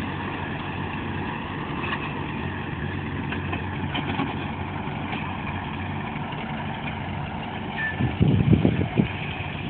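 Ford 8N tractor's four-cylinder engine idling steadily. A cluster of loud low thumps comes about eight seconds in.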